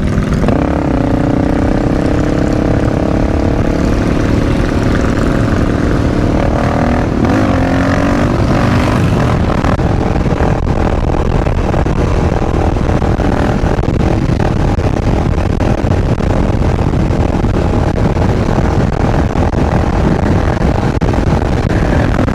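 Motorcycle engine running under way, its note holding steady for several seconds and shifting pitch about seven seconds in, then giving way to a rougher, steady rush of engine and riding noise.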